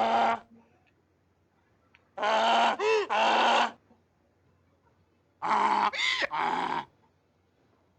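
Donkey braying: a bray ending about half a second in, then two more long hee-haw brays of about a second and a half each, a couple of seconds apart.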